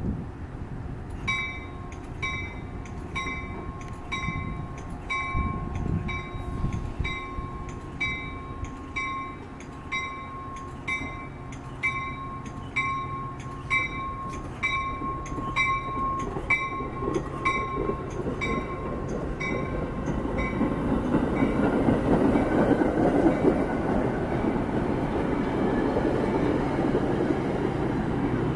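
Metra bilevel commuter train rolling past slowly while a warning bell rings evenly, a little under twice a second, until it stops about twenty seconds in. After that the rumble of the coaches' wheels on the rails grows louder as the cars pass close by.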